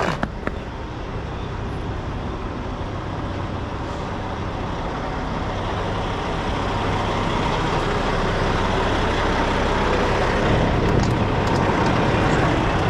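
Semi-truck diesel engine running as the rig manoeuvres slowly to straighten up, growing steadily louder as it pulls. A brief click right at the start.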